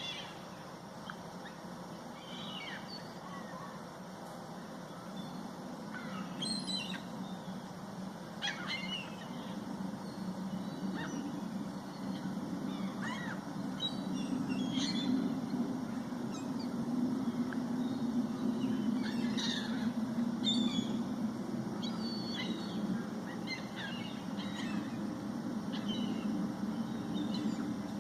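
A flock of birds calling, with scattered short chirps and calls over a steady low din that swells from about halfway through.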